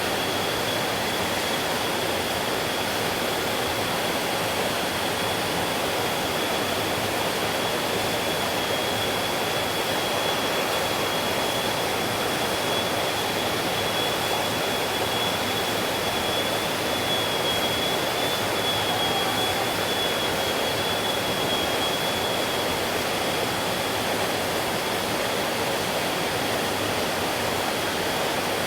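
Mountain stream water rushing steadily over rocks, an even rushing noise. A thin, steady high tone runs through most of it.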